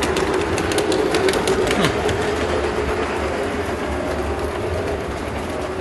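Large-scale model train running on the layout's track: a steady motor hum with a quick run of clicks from the wheels over rail joints in the first couple of seconds, then a smoother run.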